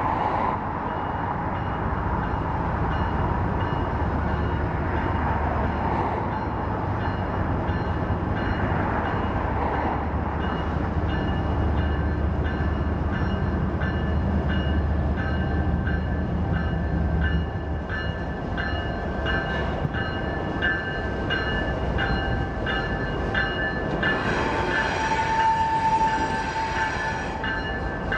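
A diesel-hauled freight train passing close by. The locomotives' engines rumble for the first part, then the cars roll past with a steady run of clicks over the rail joints and high squealing tones from the wheels. A louder high tone rises briefly near the end.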